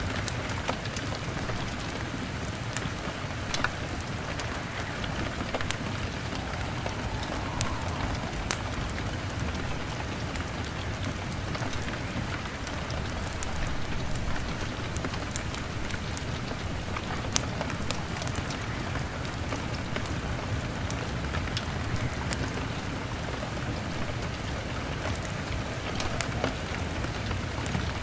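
Steady rain pattering on a window, with scattered sharp crackles and pops from a wood fire.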